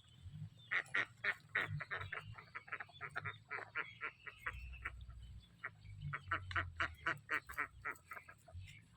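Ducks calling in rapid runs of short quacks, several a second, with a brief lull about halfway through.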